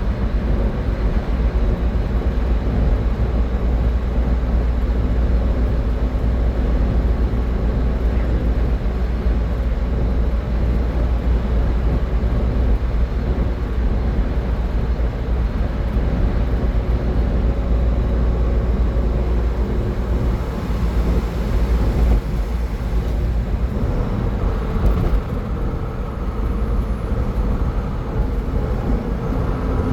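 Steady road and tyre noise of a car at highway speed, with a deep, even drone underneath.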